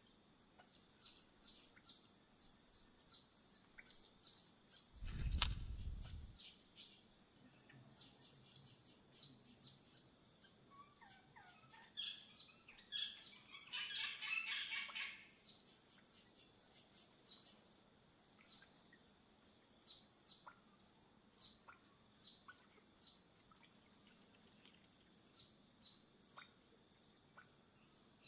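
Birds calling outdoors. A high chirp repeats evenly about twice a second, and a louder, harsher chattering call comes about halfway through. A single low thud sounds about five seconds in.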